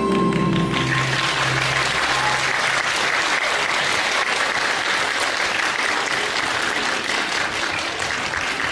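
Audience applauding, with the last notes of the music dying away in the first couple of seconds.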